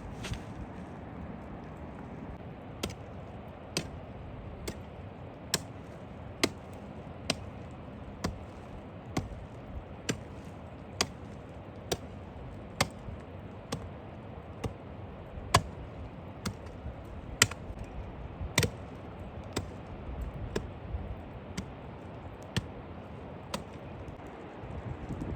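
Sharp knocks or taps repeating about once a second, some louder than others, over a steady hiss.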